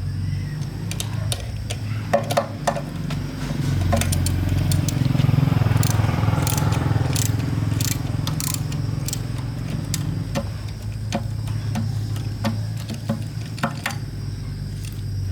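A steady low engine drone runs throughout, swelling for a few seconds in the middle. Over it, metal tools and parts give many short clinks and knocks, with some scraping, as work goes on.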